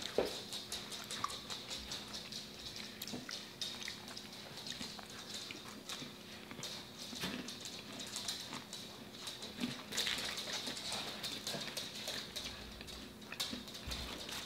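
Close-up eating sounds: steady chewing with many small wet clicks and smacks of the mouth.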